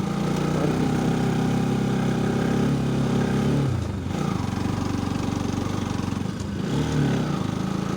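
Motorcycle engine running while riding, its note dropping sharply a little before four seconds in and picking up again near seven seconds.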